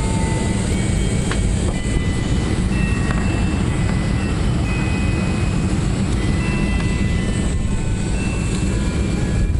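Steady cabin noise of an airliner descending: jet engine and airflow rumble heard from inside the passenger cabin, even and unbroken.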